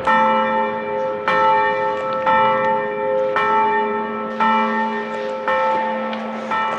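A church bell tolling, struck about once a second (seven strokes), each stroke ringing on into the next.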